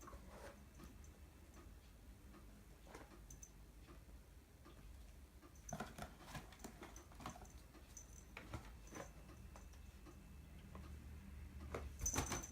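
Faint, irregular ticks and taps of a cat moving about on the floor, with a louder cluster of taps near the end.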